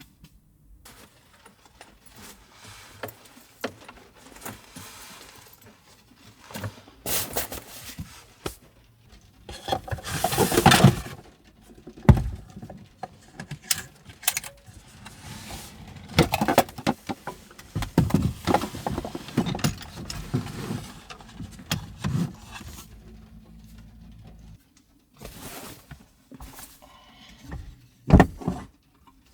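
Gear being handled and set down: irregular clicks, rustling and clatter, with a sharp knock about twelve seconds in and another near the end.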